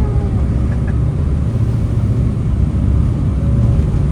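Jet boat's turbo diesel engines running with a steady low rumble.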